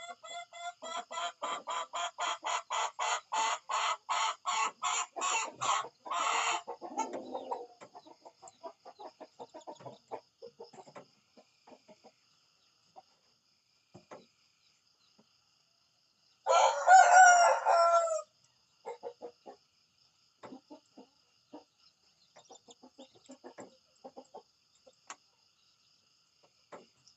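Chickens clucking: a fast run of clucks, about four a second, builds in loudness for the first six seconds, then gives way to quieter scattered clucks. About sixteen seconds in, a rooster gives one loud crow, under two seconds long.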